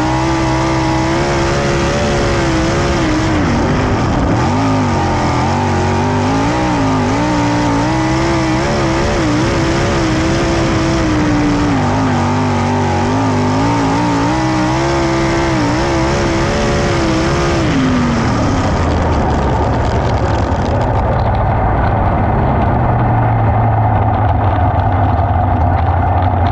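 410 sprint car's methanol V8 at high revs on a time-trial run, its pitch rising and falling with the throttle. About two-thirds of the way through, the revs fall away to a low steady running as the car slows.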